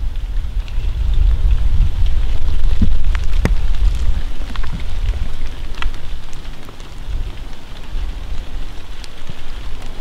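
Light rain pattering, with scattered sharp ticks of drops, over a low rumble on the microphone that is loudest two to four seconds in.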